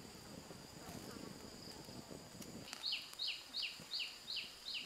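A bird calls a quick series of six sharp notes, each falling in pitch, about three a second, over a steady high-pitched insect drone.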